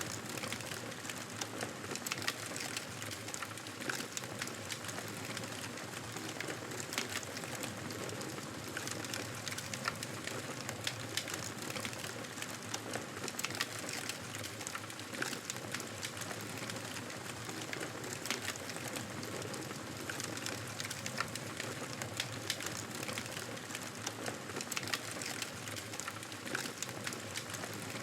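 Campfire burning: a steady soft hiss with frequent small crackles and pops.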